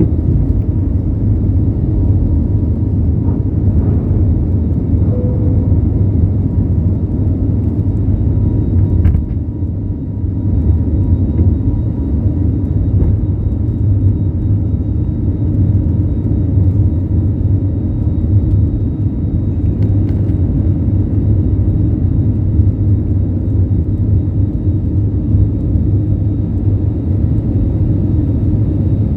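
Airbus A320 cabin noise: a steady, loud low rumble of the jet engines and rushing air, heard from inside the cabin, easing slightly for a moment about a third of the way in.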